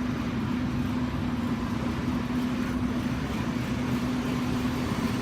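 Rooftop HVAC package units running, a steady machine hum with a constant low drone.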